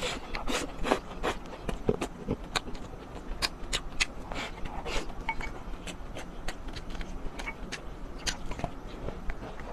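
Close-up eating sounds: a spoon scraping and clinking against a bowl of curry rice, with irregular clicks of chewing.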